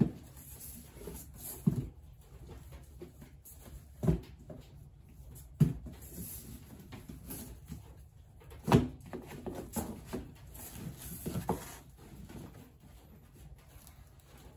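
Books being packed into a cardboard box: irregular knocks and thumps as they are handled and set down, the loudest a little before the end.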